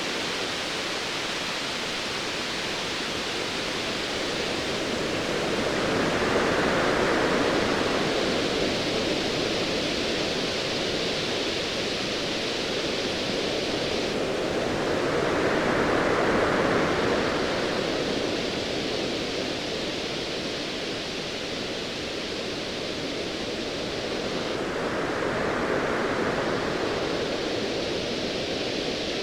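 Ocean waves washing in with a steady hiss of surf that swells three times, roughly every ten seconds, as each wave breaks.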